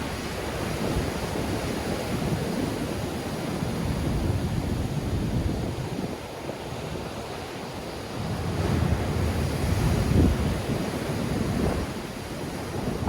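Black Sea surf breaking on the shore in strong wind, with wind buffeting the microphone; the rumble swells in two surges, the bigger one from about 8 to 12 seconds in.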